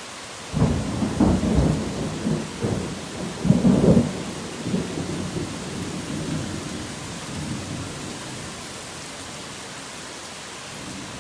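Steady heavy rain with a clap of thunder breaking in about half a second in. The thunder rumbles with crackling peaks for a few seconds, then rolls away and fades, leaving only the rain.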